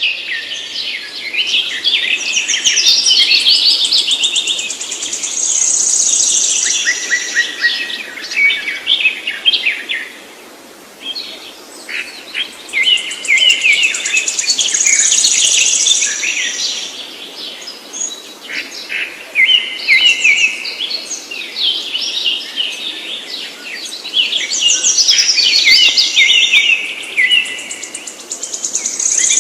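Songbird singing long, rapid, high-pitched twittering phrases, in three bouts of several seconds each with short pauses between them.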